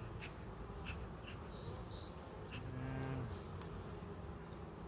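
Honeybees buzzing around an opened hive, with one bee buzzing close by for about half a second just past the middle, and a few faint clicks.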